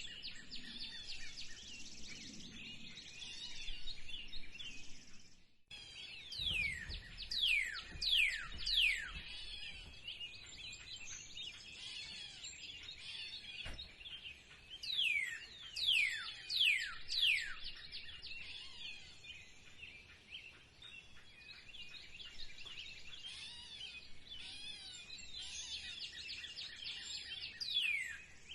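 Birds singing in a spring chorus: steady high chirping and twittering, broken three times by a run of four or five quick whistles that each fall steeply in pitch. The sound cuts out briefly about five seconds in.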